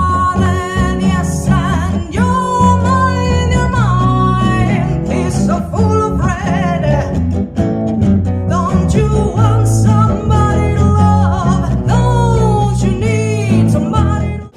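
Live blues-rock band playing: a singing voice and guitar with sliding, bending notes over bass and drums. The music cuts off abruptly at the very end.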